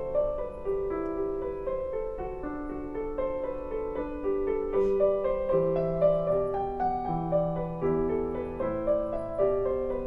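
Instrumental piano music: a melody over held chords, with no singing.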